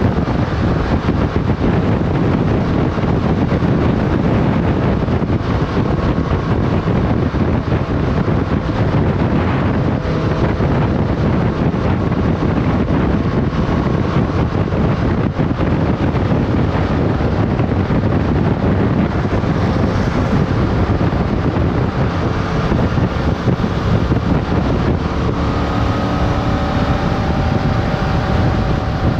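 Motorcycle riding at speed, with heavy wind rushing over the microphone and the engine running underneath; near the end the engine note climbs as the bike accelerates.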